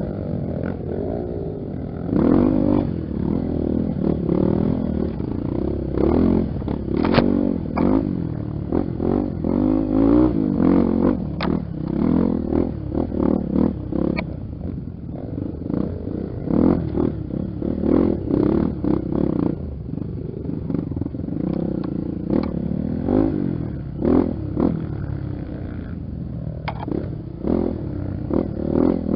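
Honda XR 250 Tornado trail motorcycle's single-cylinder four-stroke engine running under load, its pitch rising and falling again and again as the throttle is worked over rough ground, with frequent sharp knocks and clatter from the bike on the trail.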